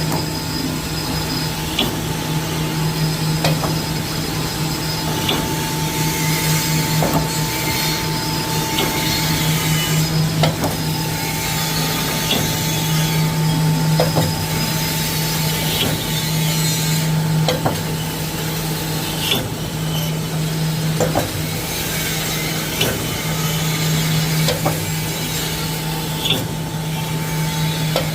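Wire mesh welding machine running: a steady low hum with a sharp clack about every two seconds as the machine cycles.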